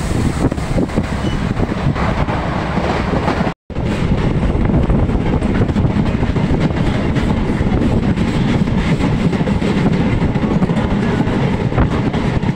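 MEMU electric passenger train running at speed, heard from on board: a steady, loud rumble and rattle of wheels on the rails. The sound cuts out completely for a moment about a third of the way in, then resumes.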